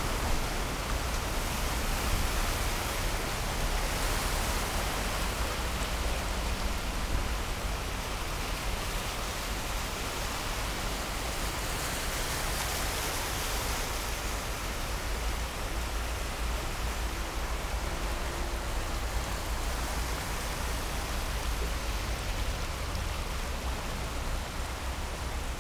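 Heavy thunderstorm rain falling steadily onto a flooded street, a continuous hiss, with cars driving through the standing water and splashing it up as they pass.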